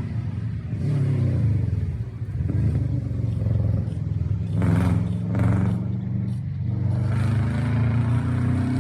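A car engine running steadily at low revs, rising slightly in pitch near the end, with a few short noisy bursts about halfway through.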